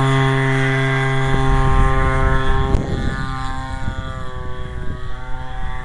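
Homelite 30cc string-trimmer engine converted to power a giant-scale RC airplane, buzzing at high revs in flight with a steady pitch. It grows fainter after about three seconds, with wind rumbling on the microphone.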